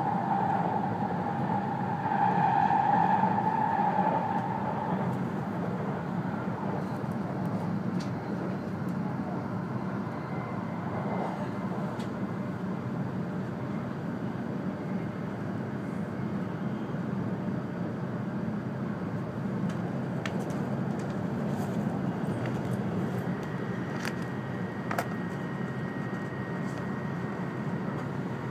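Steady running noise of an E2-series Shinkansen heard inside the passenger cabin, a low rumble throughout, with a louder, higher hum over the first five seconds or so.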